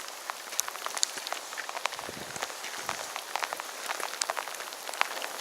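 Rain falling steadily, with many separate drops ticking sharply on a nearby surface.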